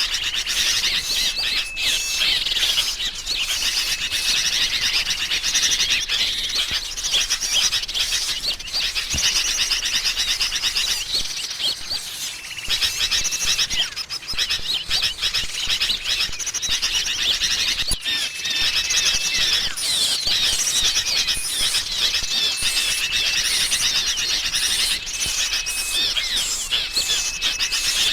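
Bird-lure recording of agitated, noisy sooty-headed bulbuls (kutilang ribut) chattering, mixed with calls of small songbirds, in a dense unbroken chorus. A short, level whistled note repeats every few seconds through it.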